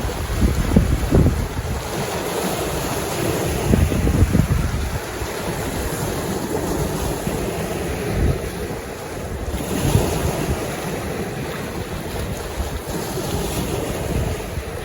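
Lake waves washing against the shore, a steady wash of water, with wind buffeting the microphone in gusts about a second in, around four seconds and near ten seconds.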